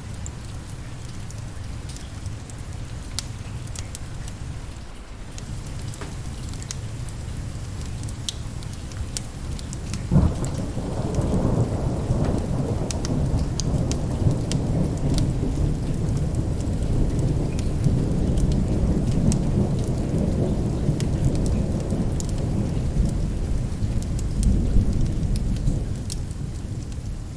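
Steady rain with scattered small crackles from a wood fire. About ten seconds in a thunderclap cracks and rolls into a long low rumble that dies away near the end.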